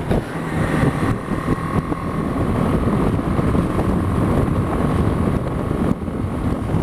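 BMW G 310 GS single-cylinder engine running steadily at cruising speed, with a steady whine over the engine note. Wind rushes over the on-board microphone.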